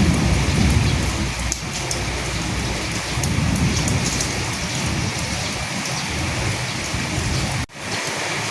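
Steady rain falling, with a low rumble of distant thunder in the first half. The sound cuts out for an instant near the end, then the rain carries on with less low rumble.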